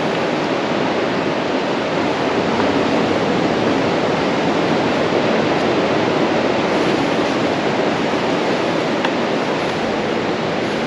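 Pacific Ocean surf breaking on the beach: a steady rush of waves that swells a little midway.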